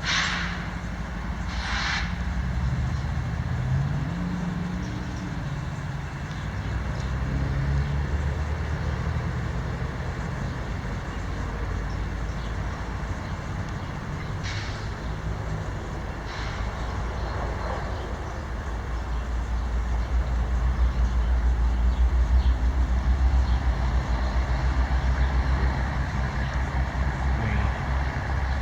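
Steady low rumble of heavy vehicles passing, growing somewhat louder in the second half, with two short hisses about a second in and a second later, and two fainter ones past the middle.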